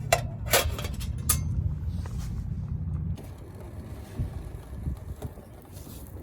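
Wind rumbling on the microphone, cutting off abruptly about three seconds in, with three sharp clicks in the first second and a half from metal camp cooking gear being handled.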